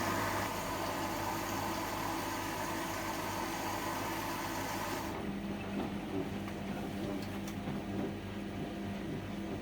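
Privileg 804 washing machine running with a steady mechanical hum. A hiss stops abruptly about five seconds in, leaving a lower, steadier hum.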